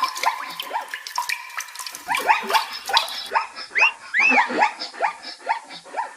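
Many animals calling at once: rapid, overlapping high yips and chirps, each sweeping up or down in pitch.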